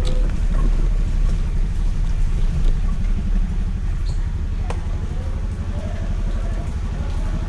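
Scooter being ridden: a steady low rumble of wind buffeting the microphone over the engine, with a few light ticks.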